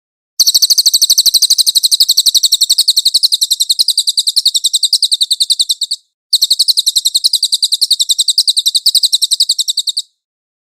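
Cililin songbird singing two long, fast trills of rapidly repeated high, thin notes, about ten a second. The first trill runs about five and a half seconds; after a brief break a second trill of about four seconds follows.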